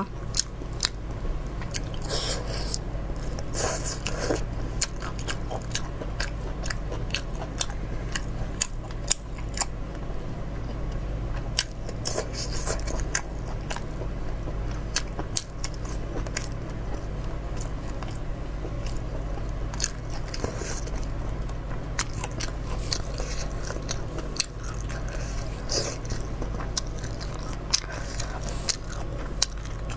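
Close-up eating sounds: biting and chewing spicy shellfish with roe, with frequent short crunches and clicks of shell cracking, over a steady low hum.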